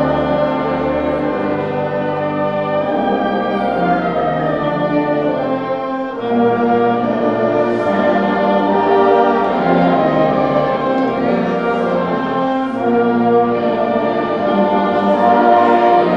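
A school band playing a slow piece in sustained full chords, with a slight easing about six seconds in before the whole band swells again.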